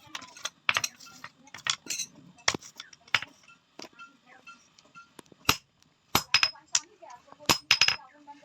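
Hand hammer striking a metal tawa griddle being forged by a blacksmith: irregular sharp metallic clinks, each with a brief ring, coming in quicker runs over the last few seconds.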